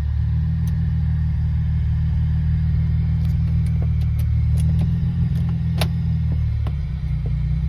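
Car engine idling with a steady, deep exhaust rumble, loud because the catalytic converter has been unbolted from the exhaust. A few light clicks come through over the rumble, one sharper about six seconds in.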